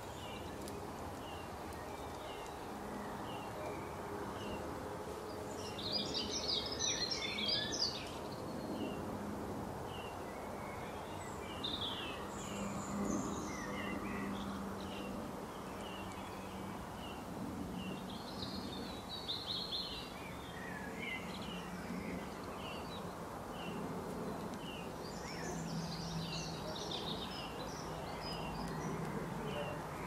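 Birds calling in a garden: a steady series of short, high chirps about two a second, with louder bursts of twittering song several times, over a steady background hiss.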